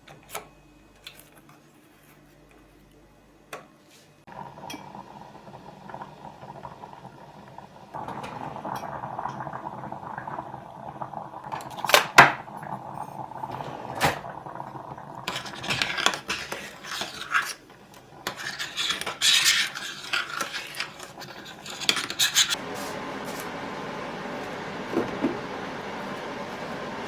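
Dishes and cutlery clinking and clattering over a steady rushing noise. The noise comes in about four seconds in and grows louder a few seconds later. There are sharp clinks near the middle, followed by a busy stretch of clatter.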